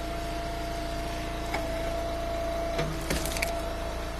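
Eastonmade wood splitter running steadily under load, its engine hum carrying a held whine that steps slightly higher about a second and a half in as the round is pushed through, with a few faint cracks of wood splitting around three seconds in.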